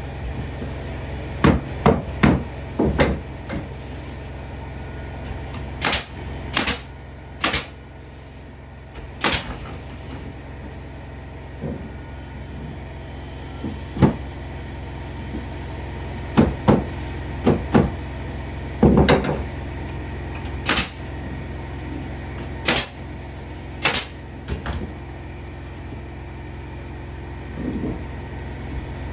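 Hammer strikes and knocks on wood, irregular and spread out with pauses, over a steady low hum.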